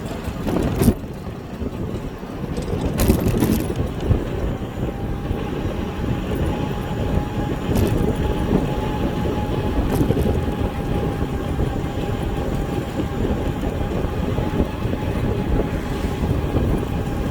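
Riding noise on an e-bike: a steady rumble of wind and tyres, with a few sharp clicks and knocks, and a faint steady whine from about five seconds in.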